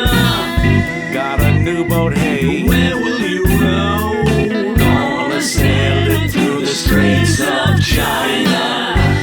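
Band playing a song: sung vocals over guitar, bass guitar and drums keeping a steady beat.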